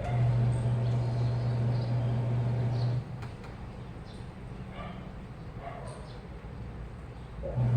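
Washing machine motor running with a steady low hum, stopping about three seconds in and starting again just before the end, in the stop-start pattern of the drum tumbling in a wash cycle.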